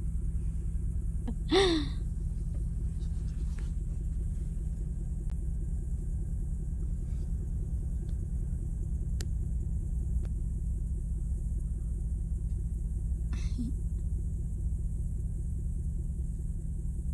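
Steady low rumble of an idling vehicle, with two short higher sounds, one about a second and a half in and one near the end.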